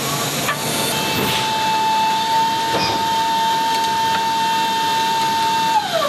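Steady aircraft noise with a steady high whine that starts about a second in and slides down in pitch near the end.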